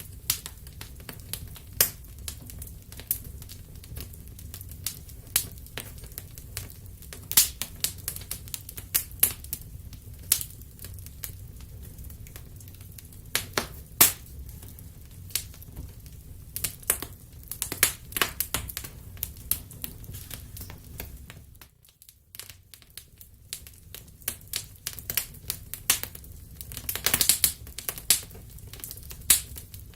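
Wood fire crackling, with many irregular sharp pops and snaps over a steady low rumble; the sound drops away briefly about two-thirds of the way through.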